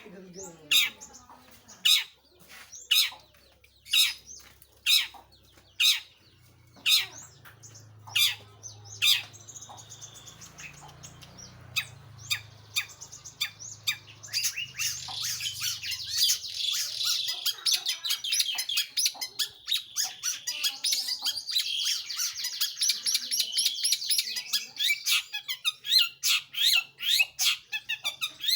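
Long-tailed shrike singing: sharp, loud call notes about once a second at first, then from about halfway a fast, continuous chattering song of rapid high notes.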